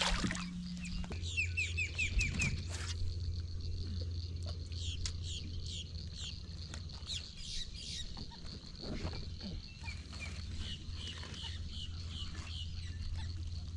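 Birds calling with many short, repeated chirps, including a quick run of about six notes near the start, over a steady low hum that sets in about a second in.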